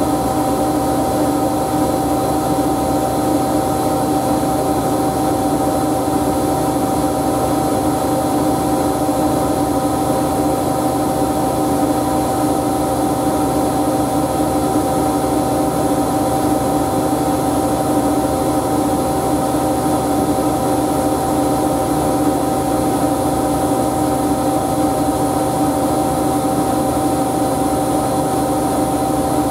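Siemens Siwamat washing machine running steadily, a constant whine over a mechanical hum with no change in pitch.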